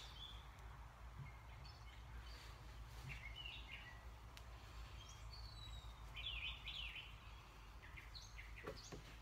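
Faint birdsong: short chirps and twittering calls scattered through, over a steady low hum.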